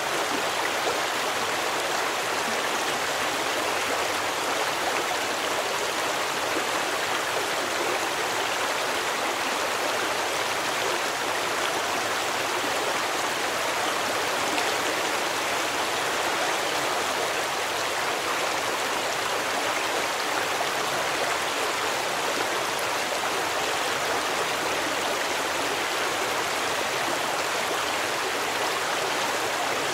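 Stream water flowing, a steady rushing babble without pauses.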